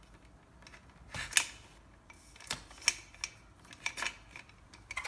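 Several sharp, light clicks and taps as a cable and its plastic connector are handled and pushed into a hole in the e-bike frame.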